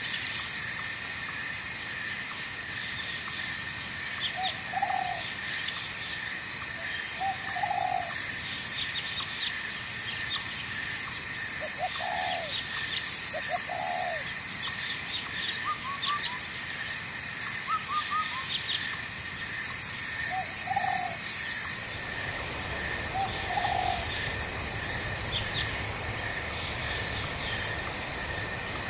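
Night forest ambience: insects trilling steadily in several high bands, some in on-off spells, with short low animal calls every two to three seconds and a few brief high chirps. A low rumble comes in about three-quarters of the way through.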